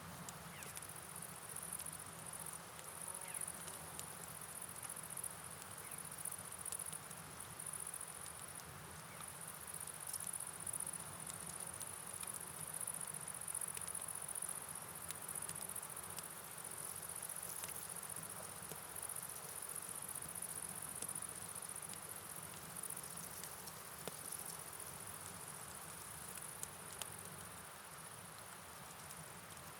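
Night ambience of insects chirping steadily in a high, slightly pulsing pitch over an even hiss of rain and river water, with scattered faint ticks.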